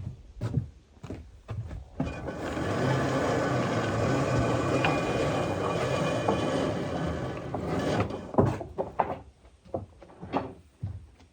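Sawmill feed works running for about six seconds, starting about two seconds in and stopping near the end: a steady mechanical rumble with a faint whine as the wire rope is driven on its drum. Scattered knocks and clanks of metal parts being handled come before and after the run.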